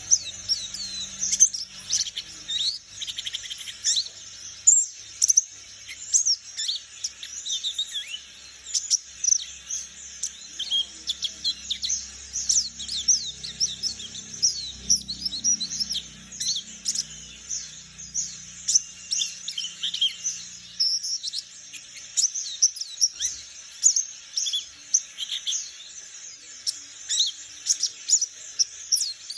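Young wild-caught white-eye (Bornean 'pleci palas') twittering in a long, rapid string of short, high, falling chirps. It is a young bird learning the continuous 'ngeriwik' chatter song.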